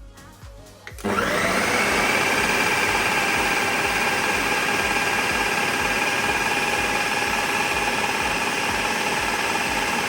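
Electric kitchen blender switched on about a second in, its motor spinning up with a rising whine and then running steadily at full speed.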